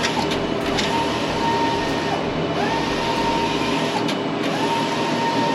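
Large-format printer running: a motor whine that rises and then holds steady, repeating every second or two as the print head sweeps back and forth, over a steady low hum.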